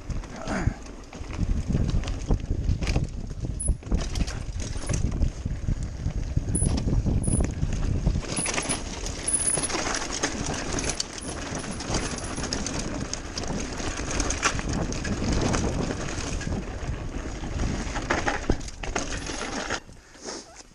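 Mountain bike riding over a rough dirt trail, the bike rattling with many quick knocks over a heavy rumble of wind on the microphone. It quietens about twenty seconds in.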